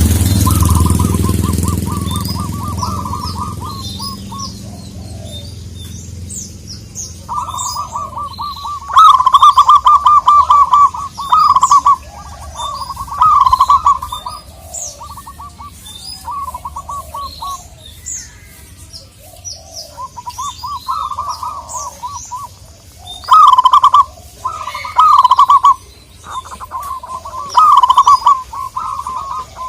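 Zebra dove calling in repeated bursts of rapid staccato coos. Small birds chirp higher up throughout. A low rumble fades out over the first few seconds.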